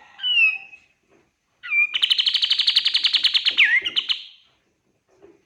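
Kapas tembak songbird singing: a short downslurred whistle, then a loud, very fast trill of about a dozen notes a second lasting some two and a half seconds, ending in a quick twisting flourish.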